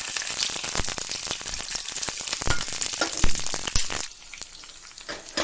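Hot oil in a small pan sizzling and crackling loudly as an ingredient is dropped in to fry, a dense spattering that falls to a quieter sizzle about four seconds in.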